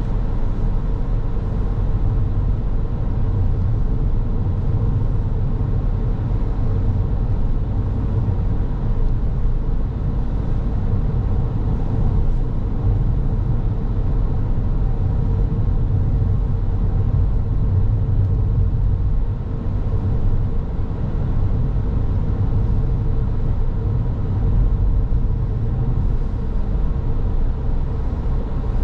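Car driving along a road: a steady low rumble of road and engine noise, with a faint steady hum running through it.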